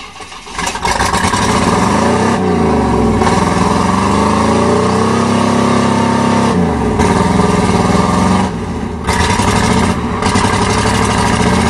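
1988 Chevrolet pickup's 305 small-block V8 revving hard as the truck drives through mud, its pitch rising and falling over and over, with a brief dip in power about nine seconds in. The engine is missing, which the owners put down to wet ignition wires.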